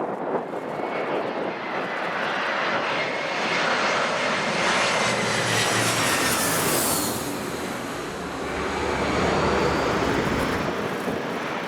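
Airliner passing close by. Its engines give a high whine that falls in pitch as the aircraft goes past, about seven seconds in, and a low rumble follows.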